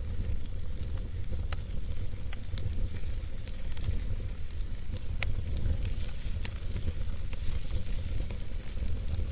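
Wood fire burning in a fireplace: a steady low rumble and hiss with scattered sharp crackles and pops, about one or two a second.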